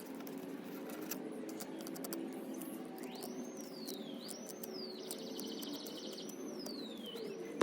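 A bird singing: repeated clear whistled notes that each rise and then slide down, starting about three seconds in, with a rapid trill in the middle, over a steady low background hum.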